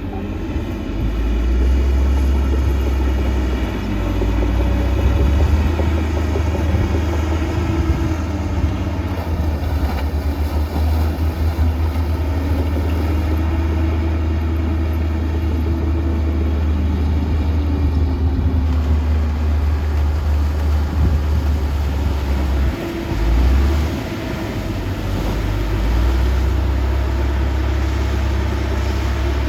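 Diesel engine of heavy earthmoving equipment running with a deep rumble, its pitch rising and falling as the load changes.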